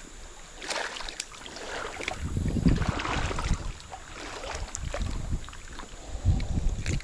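Water splashing and sloshing in a shallow creek, with wind buffeting the microphone in two low rumbles, about two seconds in and again near the end.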